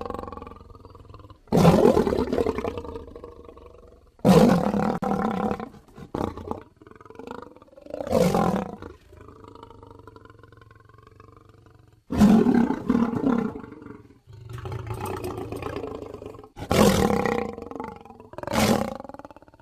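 Lions roaring and growling: a string of separate loud roars, about six, each starting abruptly and dying away over a second or two, with quieter growls between them.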